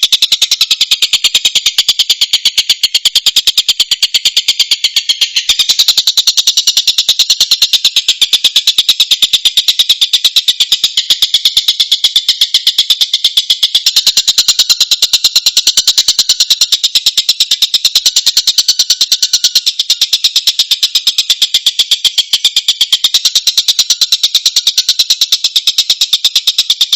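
Tengkek buto kingfisher call played as a birdsong training recording: a loud, high, unbroken chattering trill of sharp notes, many a second, a little louder from about five seconds in.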